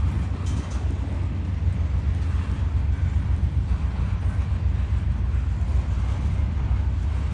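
Norfolk Southern freight train rolling slowly past, a steady low rumble.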